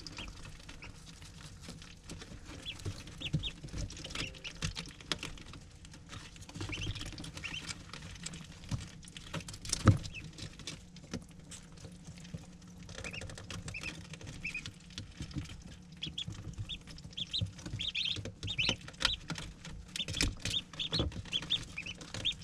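Ducklings peeping in many short, high calls, with scattered taps and scuffling and one sharp knock about ten seconds in.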